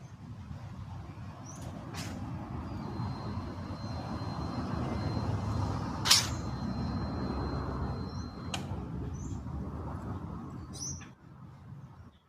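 Low rumble that swells through the middle and fades near the end, with a thin steady high tone for several seconds, a few short high bird chirps, and a sharp click about six seconds in.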